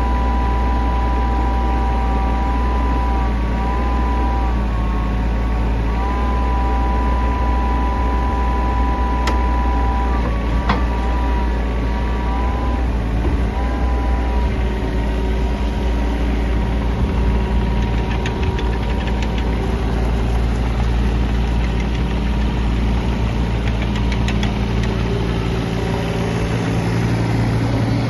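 Cat 301.7 D mini excavator's diesel engine running steadily, with a whine that wavers in pitch during the first half and fades about halfway through.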